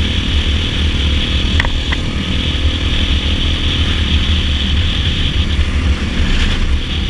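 Dirt bike engine running steadily at cruising speed, with two brief clicks about a second and a half in.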